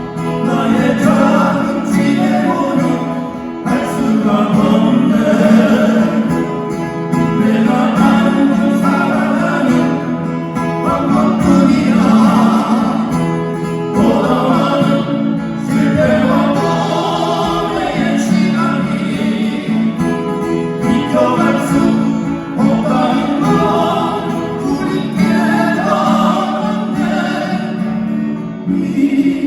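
Men's acoustic guitar vocal quartet singing a slow ballad in harmony, accompanied by strummed acoustic guitars.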